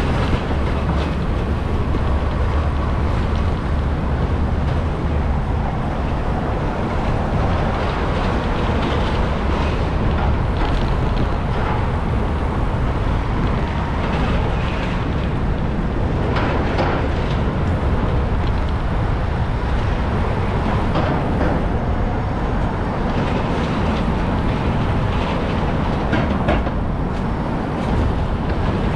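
Steady city street traffic noise with a strong low rumble, heard from a moving bicycle.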